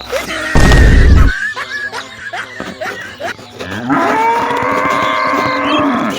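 A loud rushing burst about half a second in, then a cow mooing: one long call of about two seconds near the end, rising in pitch at the start and dropping off as it ends.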